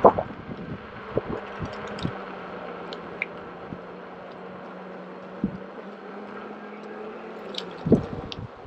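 Electric unicycle riding along a muddy trail: a steady low motor hum under wind and tyre noise, with a few knocks from the ride at the start and again near the end.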